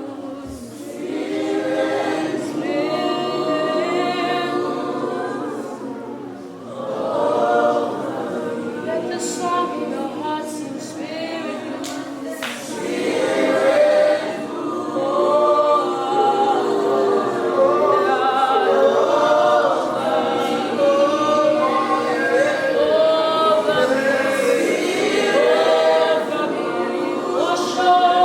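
A worship group singing together, several voices at once on a gospel-style worship song.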